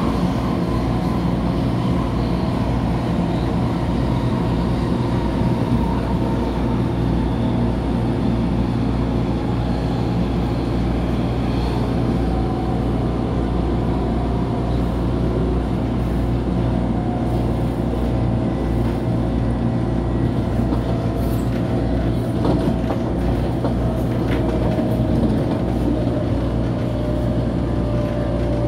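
MTR Tung Chung line A-train (Adtranz–CAF electric multiple unit) heard from inside the car while running steadily between stations: an even rumble of wheels on track with a low hum and faint whining tones from the traction equipment.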